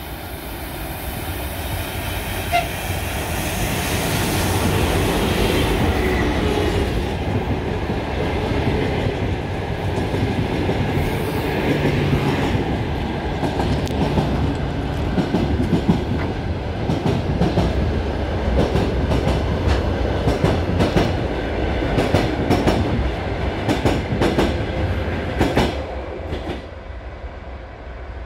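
ChS7 electric locomotive and its passenger coaches passing close by. A heavy rumble builds over the first few seconds, then a fast, uneven run of wheel clicks and clatter sounds over rail joints as the coaches roll past. It fades near the end as the train draws away.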